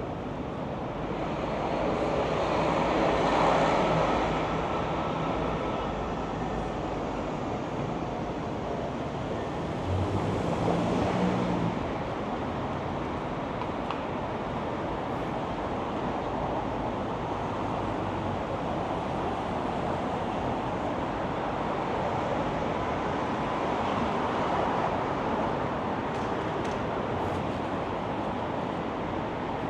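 City street traffic: a steady wash of passing vehicles with wind buffeting the microphone. A vehicle passes louder a few seconds in, and another with a low engine hum about ten seconds in.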